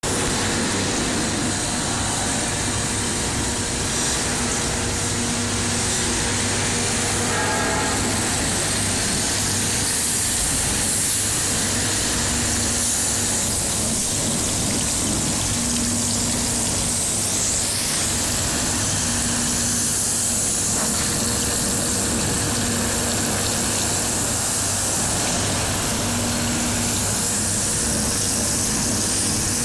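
Compressor running with a grinding noise from its head, the sign of a fault in the compressor head. It gives a steady mechanical din with a low hum and a tone that swells and fades every few seconds.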